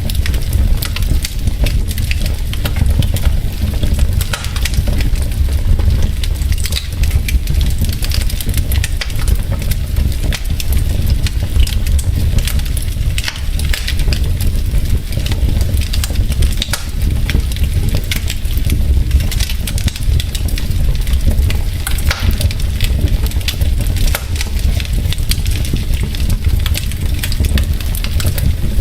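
Wood fire burning in a fireplace: logs crackling with frequent sharp pops over a steady low rumble of the flames.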